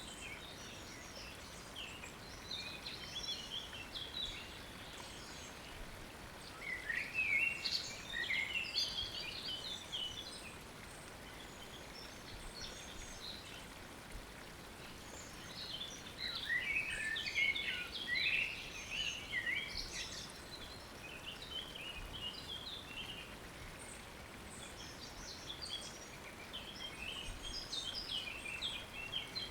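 Wild songbirds singing in short chirping, warbling phrases that come in bursts, the loudest about a third and two thirds of the way through, over a steady faint hiss of water after rain.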